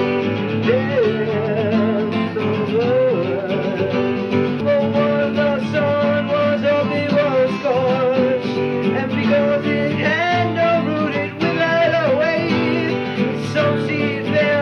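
A song: a wordless scat vocal, wavering and sliding in pitch, over guitar accompaniment.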